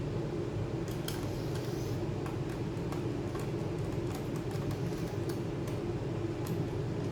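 A steady low hum with small scattered clicks and taps over it, a few a second in places.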